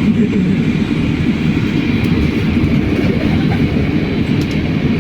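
Cabin noise of a moving BKM-43300D trolleybus: a steady low rumble of the ride, with a faint steady high whine above it.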